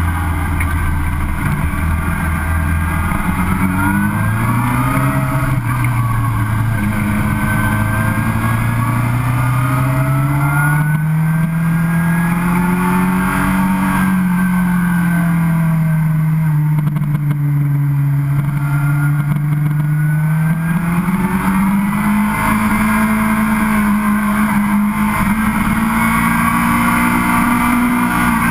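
Sport motorcycle engine heard from on board under way, its pitch slowly climbing and easing off several times with the throttle, over steady wind noise.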